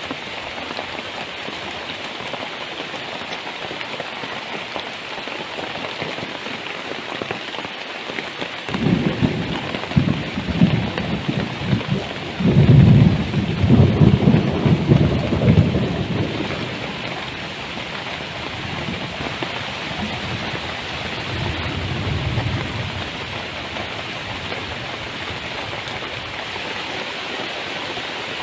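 Heavy rain pouring steadily. A rumble of thunder rolls in about nine seconds in, is loudest a few seconds later, then fades, with a fainter rumble a little after the middle.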